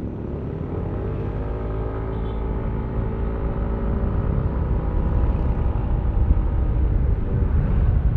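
Yamaha Aerox V3 155 cc single-cylinder scooter engine running under way, its note rising over the first couple of seconds and then holding steady, with heavy wind rumble on the helmet-mounted microphone.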